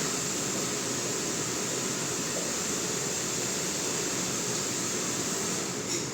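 Heavy rain falling steadily, an even rushing noise that eases slightly near the end.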